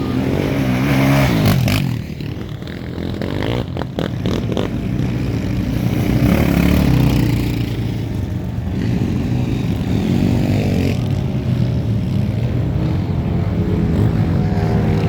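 Off-road racing engines revving hard and passing in turn, their pitch climbing and falling as they accelerate and go by, with a few sharp clicks about four seconds in.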